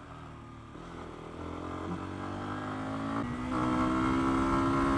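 Lexmoto Venom 125's single-cylinder four-stroke engine running under the rider: quiet at first through a tight bend, then pulling steadily louder, with a clear step up in level about three seconds in.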